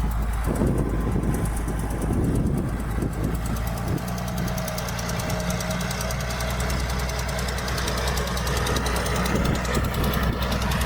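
Diesel engine of heavy earthmoving machinery running steadily, with knocking and rattling in the first few seconds, smoothing to a more even engine hum about four seconds in.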